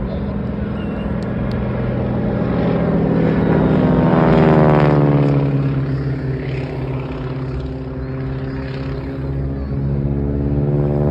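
Propeller airplane flying past, its engine rising to a peak about four to five seconds in and dropping in pitch as it goes by. The engine swells again near the end as it comes round, over a steady low engine drone.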